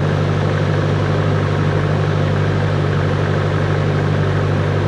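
Cessna 140's four-cylinder piston engine running steadily at a constant pitch, with propeller noise.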